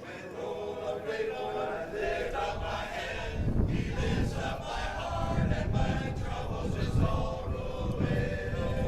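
A vocal group singing held chords. A low rumble joins the singing about three and a half seconds in.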